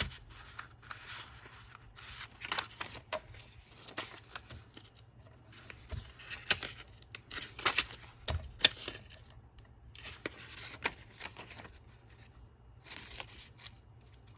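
Paper being handled and cut by hand: irregular rustling and scraping with a few sharp clicks.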